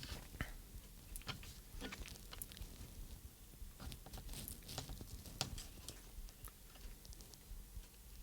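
Faint, irregular small clicks and rustles of hands working tiny wire connectors and plastic parts inside a handheld radio transmitter.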